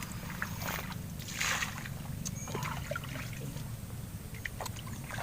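Water sloshing and splashing, with two brief splashes about half a second and a second and a half in, over a steady low rumble and a few small ticks.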